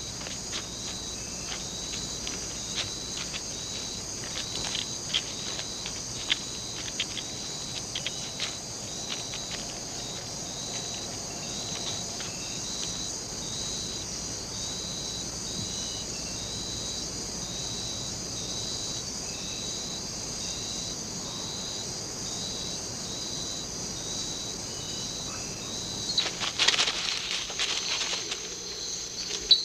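A chorus of rainforest insects buzzing and trilling steadily at a high pitch, with a pulsing chirp repeating throughout. Light clicks and ticks scatter through the first half. Near the end comes a louder burst of rustling and scraping.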